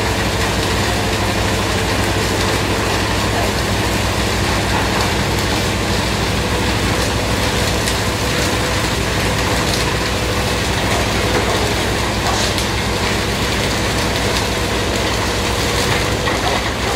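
Rotary log debarker running: a steady mechanical drone with a faint steady whine and scattered clicks and knocks.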